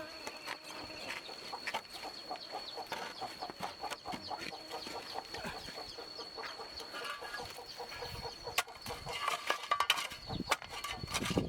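Chickens clucking over a steady, high-pitched insect drone, with a few sharp knocks near the end.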